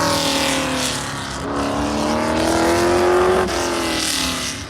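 Race car engine accelerating at full throttle, its pitch climbing steadily, then dropping suddenly at a gearshift about three and a half seconds in.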